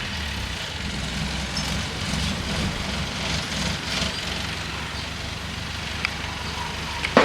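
Bulldozer's diesel engine running steadily at low revs, with two short sharp clicks about six and seven seconds in.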